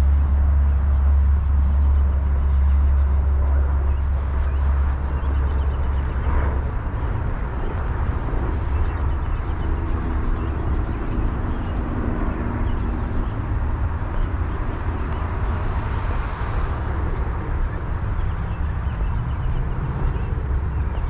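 Steady low rumble of road traffic, heaviest for the first six seconds or so and then easing into a broad background hiss.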